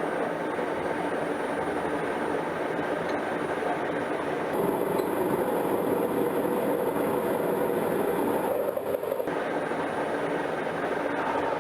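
Washing machine running hard with a steady rumbling, rattling noise. It grows louder about four and a half seconds in and eases back about nine seconds in.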